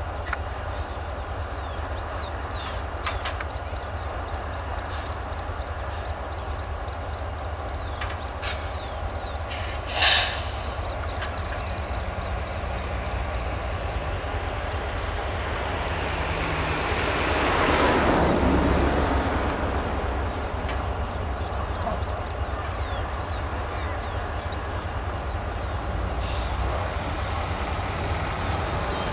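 Freight train running through a rail yard: a steady low rumble that swells to a peak about two-thirds of the way through and then eases off. A single short, sharp sound cuts through about a third of the way in.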